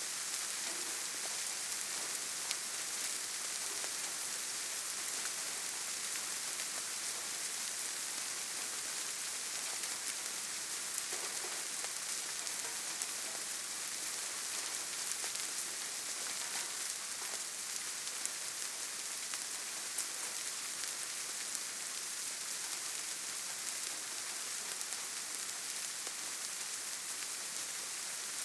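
Steady forest rainfall: an even hiss of rain on foliage, with occasional separate drops ticking through it.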